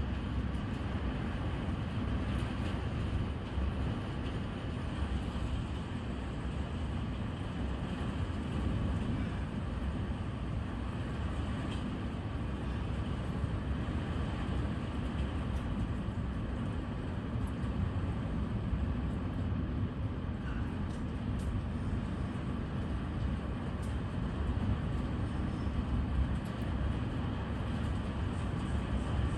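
Steady low rumble with a hiss above it. It holds even throughout, with no sharp crack or clap.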